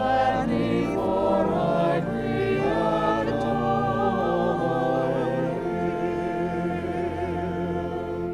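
A choir singing in parts, with long held notes and vibrato over a steady low bass. The singing stops abruptly at the end.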